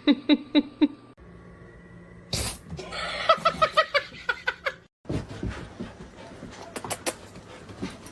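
People laughing in quick rhythmic bursts, in two separate clips, with a few sharp clicks later on.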